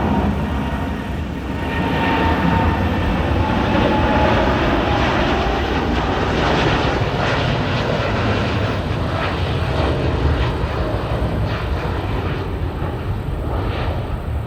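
Boeing 787-8 Dreamliner's twin turbofan engines at takeoff power: a loud, steady rush with a deep rumble and a faint whine slowly dropping in pitch.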